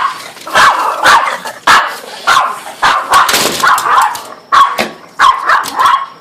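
Dog barking repeatedly and rapidly, about two sharp barks a second.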